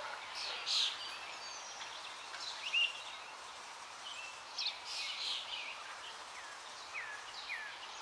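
Small birds chirping again and again in short falling notes over a steady outdoor hiss.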